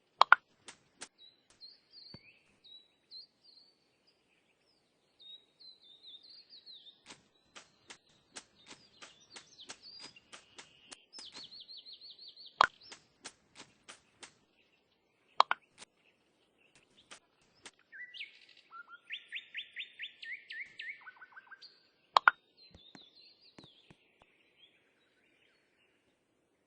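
A small bird chirping and giving fast, even trills, with many sharp clicks and a few louder knocks among them.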